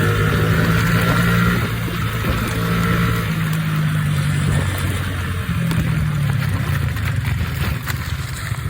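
Small single-cylinder engine of a mini pit bike running while ridden, the throttle opened and eased off several times, over a steady rush of wind noise.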